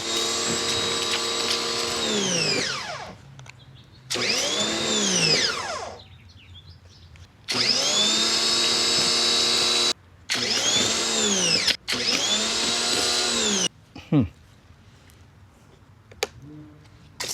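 Ryobi 2000 PSI electric pressure washer motor whining. It runs, winds down with a falling pitch, and starts up again about four more times in short runs of one to two and a half seconds, with a brief blip near the end.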